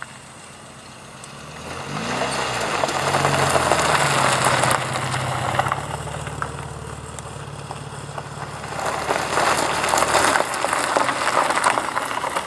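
A car engine arriving close by at low revs, with a brief rev that rises and falls in pitch about two seconds in. It then settles into a steady low running note for several seconds, and a rougher noisy rush takes over near the end.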